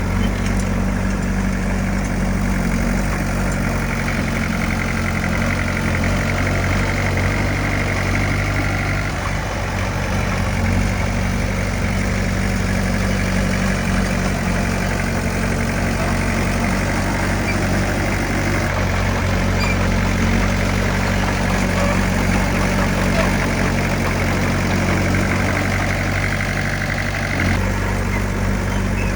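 Heavy diesel engine of earthmoving equipment running steadily at a low, even pitch.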